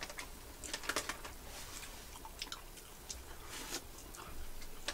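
Chewing and lip smacks from eating soft bread-roll burgers filled with sliced ham, heard as scattered faint wet clicks.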